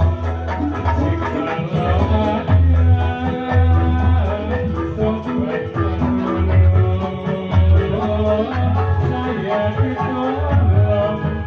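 Dolalak dance music from a live troupe: heavy low drum beats keep a steady rhythm under a pitched melody, with rattling percussion.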